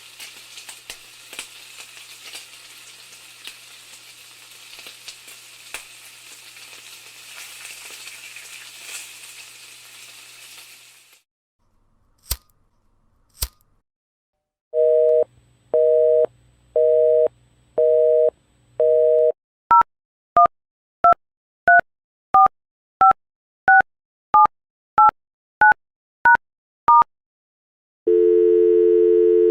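A sequence of sound-effect clips. First comes a steady crackling hiss like food frying, then two sharp clicks. Then come telephone line tones: a busy signal of five evenly spaced beeps, about a dozen quick touch-tone keypad beeps being dialled, and a steady dial tone starting near the end.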